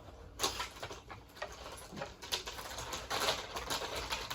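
Toy train track pieces, plastic and wooden, clicking and clattering against each other as they are handled and sorted, in an irregular run of small knocks and rattles.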